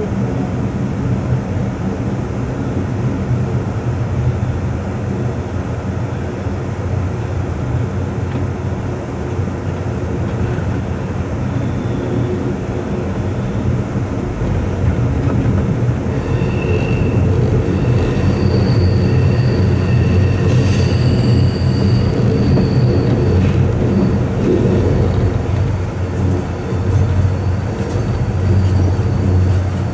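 Amtrak passenger train running through a tunnel, a steady rumble of wheels and cars on the rails heard from the rear car. About halfway through the rumble grows louder and a steady high wheel squeal joins it for several seconds.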